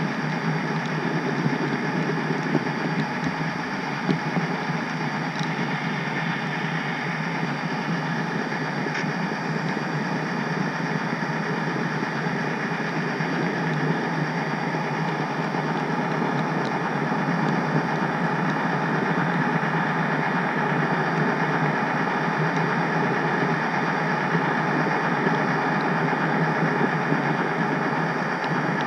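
Steady running noise of an HO scale model train, even throughout with no distinct clicks or changes.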